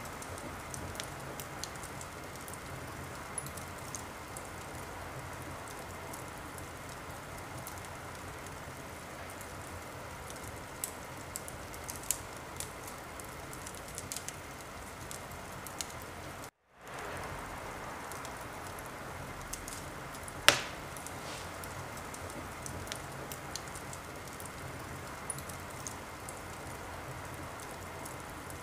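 Wood fire burning in a fireplace: a steady hiss with scattered small crackles and one loud pop about two-thirds of the way in. The sound drops out completely for a split second just before that pop.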